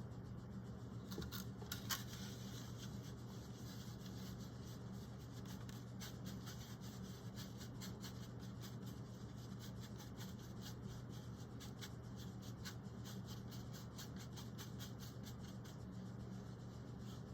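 Small paintbrush dabbing and stroking paint onto the owl's toe: many short, faint ticks and soft scratches, over a steady low hum.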